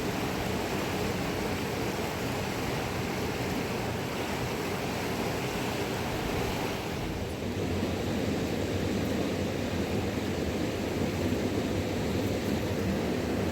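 A river rushing steadily, with a slight change in its sound about seven seconds in.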